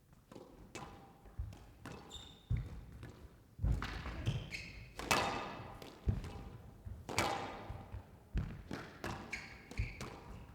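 Squash rally: the ball is struck by rackets and smacks off the court walls about once a second, some hits ringing briefly, with short squeaks of players' shoes on the court floor between strokes.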